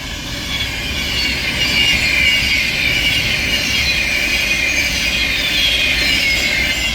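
Class 390 Pendolino electric train passing through the station at speed without stopping: a loud, steady rush of wheels and air, with high-pitched whines that slowly fall in pitch.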